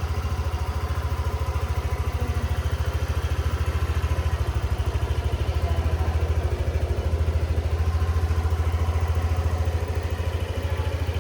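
Yamaha Xmax 125 scooter's single-cylinder four-stroke engine idling steadily, nice and quiet, with an even low pulsing note.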